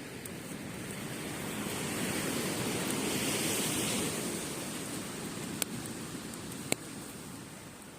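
Waves washing up on a beach, swelling to a peak about halfway through and then ebbing. Two sharp pops from a wood campfire come near the end.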